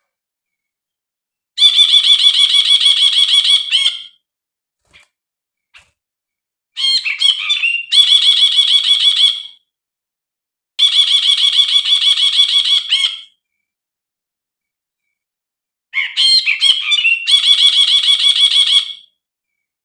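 A brinji (bulbul) calls in four runs of fast, evenly repeated high notes, each lasting two to three seconds. The second and fourth runs open with a few quick varied notes.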